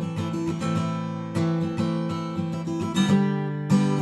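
Acoustic guitar playing chords in a steady, quick rhythm, with a change of chord about three seconds in.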